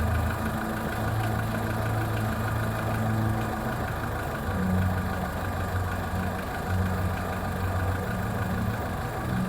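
Skoda Fabia 1.4 engine idling with a steady low hum and an extraneous noise heard mostly from underneath, which the dealers take for piston slap and call normal.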